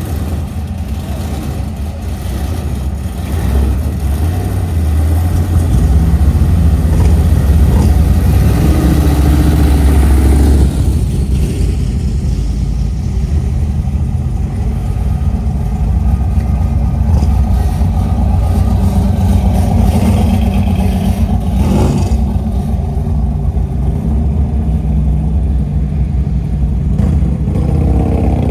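Several cars' engines running and revving as the show cars drive out one after another, loudest from about four to ten seconds in.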